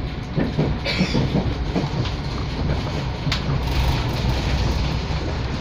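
Passenger train heard from inside the carriage: a steady low rumble with the wheels clacking over rail joints, and one sharp click a little after three seconds in.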